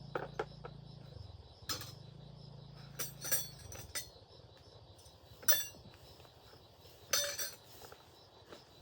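Metal tools and machine parts clinking and knocking, a handful of sharp strikes spread over several seconds, over a low hum that stops partway through.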